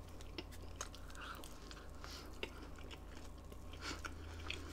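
A person chewing a mouthful of chicken quesadilla: soft, irregular mouth clicks and chewing noises, over a steady low hum.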